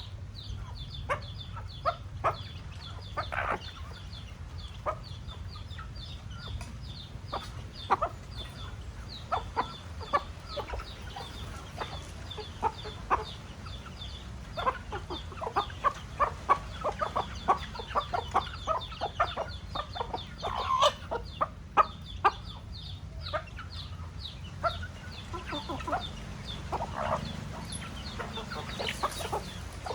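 Chickens clucking, with many short clucks spread throughout and a few longer calls, over a steady low hum.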